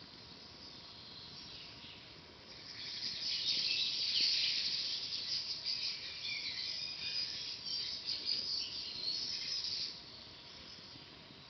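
Dense high-pitched chirping from forest birds or insects. It swells about two and a half seconds in and fades near the end, over a faint steady background.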